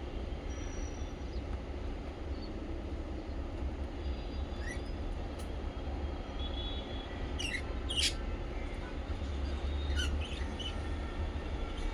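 Small pet parrots giving a few short, sharp chirps, scattered through the middle and near the end, over a steady low hum.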